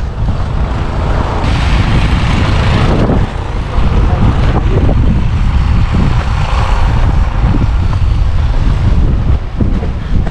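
Wind buffeting the microphone in a loud low rumble, with a louder rush of wind noise about two seconds in.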